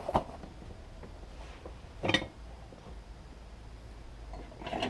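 A metal ladle knocking and clinking against the crucible while skimming dross off molten aluminium: three short metallic knocks, the loudest about two seconds in with a brief ring.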